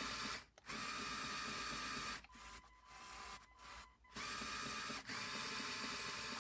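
Small electric motor in a Lego Technic tractor model whirring through its plastic gear train, run in bursts: it stops briefly about half a second in, runs quieter and choppier through the middle, then runs steadily again with one short break near the end.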